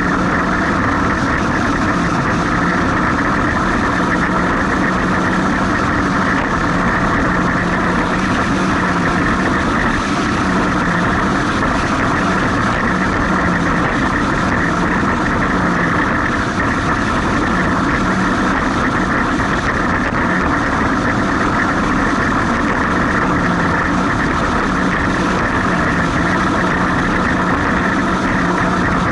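Jet ski engine running steadily under a constant rushing noise.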